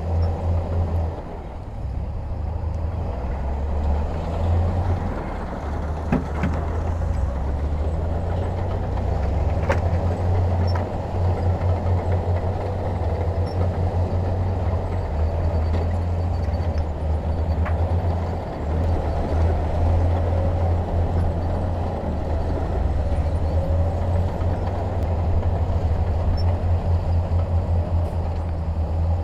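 Heavy diesel construction machinery running, a steady deep engine rumble with a few faint clicks.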